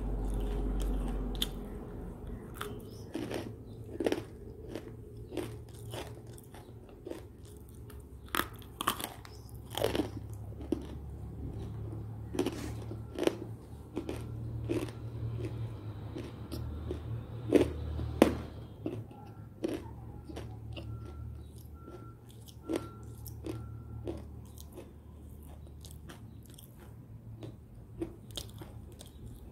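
Close-up biting and chewing of a dried white edible-clay (nakumatt) cookie, with many sharp, irregular crunches as it breaks up in the mouth.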